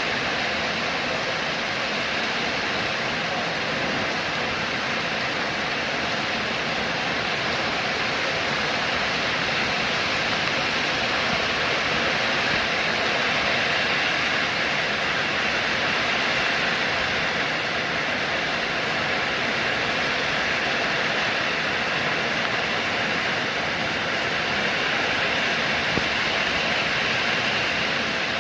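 Steady rainfall, an even hiss of rain without a break.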